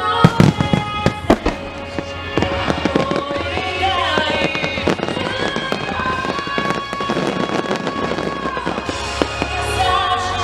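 Fireworks bursting in quick succession, with a rapid cluster of loud bangs in the first two seconds and more scattered bangs afterwards, over music with long held melodic notes.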